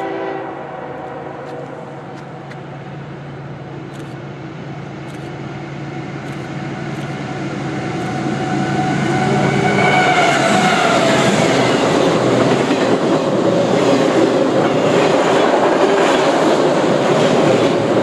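A CSX freight train passing close by. The diesel locomotives' engine hum drops in pitch as they go by about halfway through, then the railcars rumble and clatter loudly over the rails.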